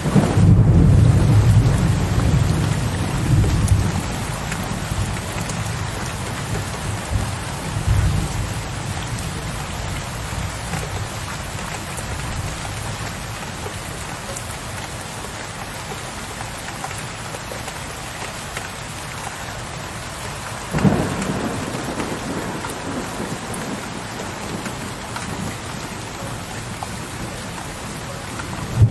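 Steady rain with low rolling thunder: a loud, deep rumble in the first few seconds that slowly dies away, and a sharper thunderclap about 21 seconds in.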